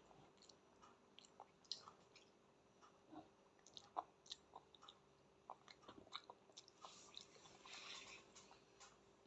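Faint chewing and wet mouth smacks of a small child eating pasta: scattered soft clicks, with a brief rustling patch about seven seconds in.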